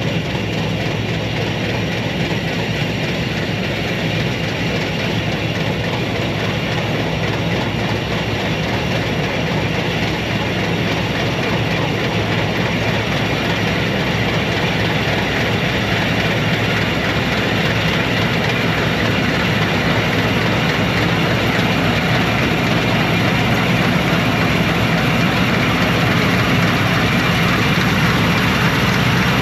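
Combine harvester running steadily under load: a continuous heavy diesel engine drone mixed with the rush of the threshing machinery, slowly growing a little louder.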